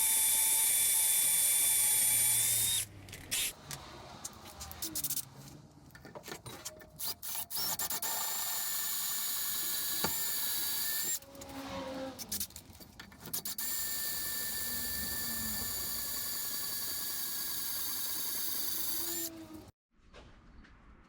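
Electric drill running in three long, steady stretches with a constant whine, separated by pauses filled with clicks and handling noise; it cuts off suddenly near the end.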